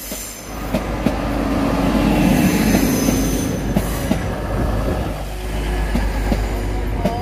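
TransPennine Express passenger train running along the platform. Its drive hums steadily, louder around the middle, while the wheels click over the rail joints and give a thin high squeal.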